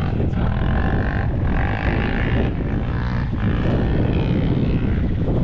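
Motorcycle engine running steadily, heard as a continuous low rumble.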